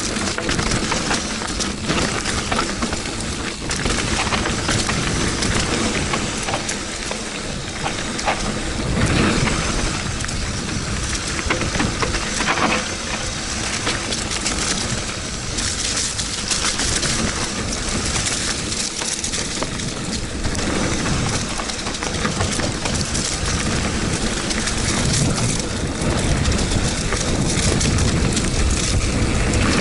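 Wind rushing over the camera's microphone while a mountain bike rattles and its tyres crunch over a rocky trail at speed: a steady, loud noise with no pauses.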